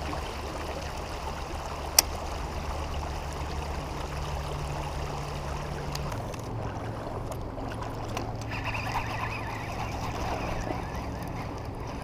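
River water running steadily, with a single sharp click about two seconds in.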